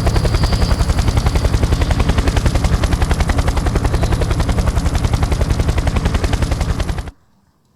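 A loud, rapid, even rattle of about fifteen pulses a second, starting abruptly and cutting off suddenly about seven seconds in.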